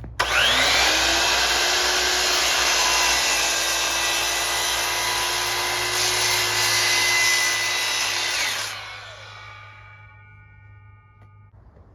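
Cordless circular saw spinning up, cutting through half-inch plywood with a steady loud whine for about eight and a half seconds, then winding down as the trigger is released.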